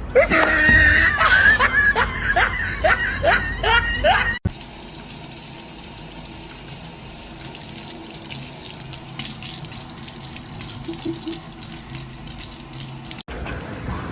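A quick run of short, rising squeaky sounds, then, after an abrupt cut, about nine seconds of steady running water.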